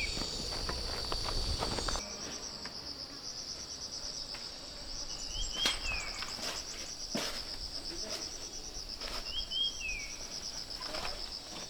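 Outdoor insect chorus: a steady, high, pulsing chirring, with a few short falling bird chirps and several sharp knocks or footsteps mixed in. A low rumble stops about two seconds in.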